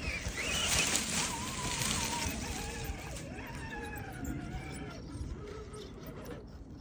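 RC crawler truck's electric motor and gears whining as it drives over the obstacle, the pitch wavering and slowly falling, over a rough scrabbling hiss; it fades near the end.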